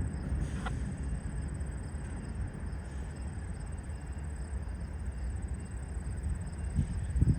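Low, steady rumble of idling CN freight diesel locomotives on a stopped train, with brief wind buffets on the microphone at the start and near the end. A faint steady high-pitched trill runs underneath.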